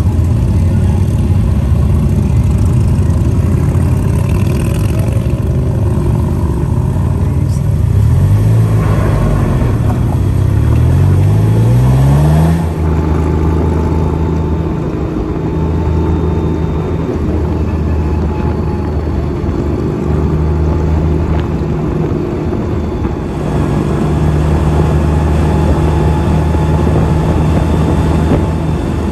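Engines of a motorcycle group ride. Several engines rise in pitch together as the bikes pull away, about a third of the way in. Then comes steady engine drone with road and wind noise while riding along the highway.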